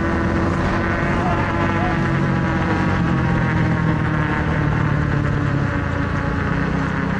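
Honda CRF450R dirt bike's single-cylinder four-stroke engine running at a steady pace, with a rush of wind and riding noise on the microphone.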